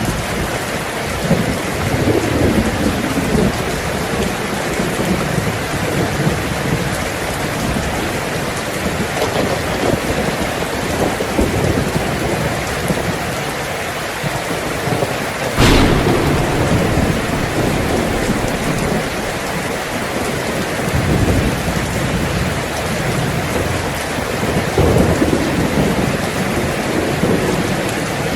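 Heavy rain drumming steadily on a tin roof, with several rolls of thunder rumbling through it and one sharp thunderclap about halfway through that rolls on for a few seconds.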